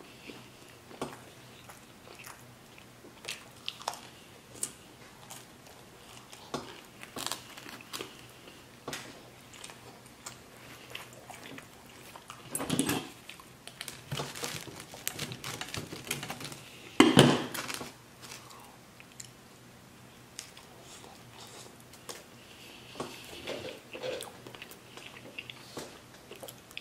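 Close-miked chewing of pizza, with many small wet clicks and smacks. Twice, about halfway through, there is a louder crunch from a rolling pizza cutter cutting through the crust; the second is the loudest sound.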